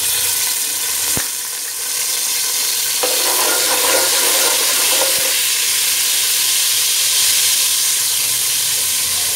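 Ginger-garlic paste sizzling and frying in hot oil, stirred with a spoon in the pot; there is a single click about a second in.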